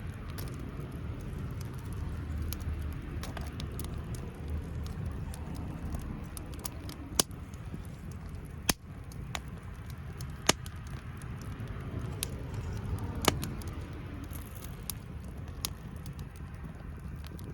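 Wood fire crackling, with scattered sharp pops every second or two over a low steady rumble.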